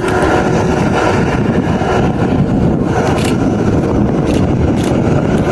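Aircraft engines running loudly and steadily, a dense, even noise heaviest in the low range.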